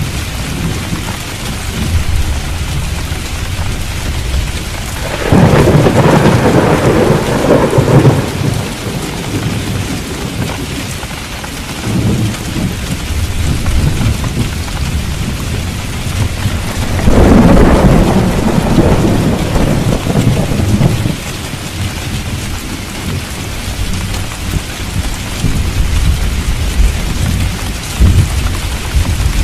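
Steady heavy rain with thunder rumbling twice: once about five seconds in and again a little past the middle, each rumble lasting about three or four seconds and louder than the rain.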